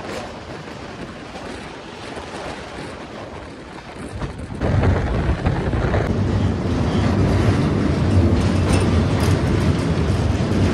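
Sachkhand Express passenger train running at speed, heard from an open coach window: a steady rushing noise that jumps abruptly about four and a half seconds in to a louder, heavier rumble of wheels on rails.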